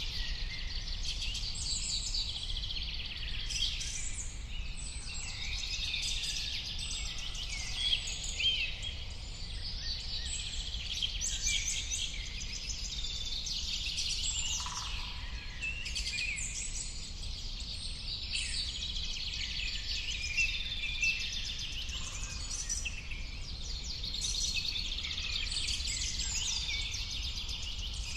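A chorus of many birds singing and calling at once, with dense overlapping chirps and trills, over a steady low rumble.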